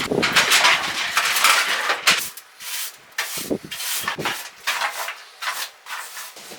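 Irregular scraping and rubbing in rough strokes of varying length, with a few sharper knocks between them, as material is worked off a surface.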